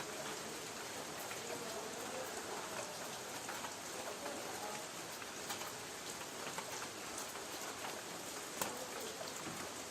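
Light rain falling on a tin roof: a steady hiss with scattered sharper drop ticks, one louder tick near the end.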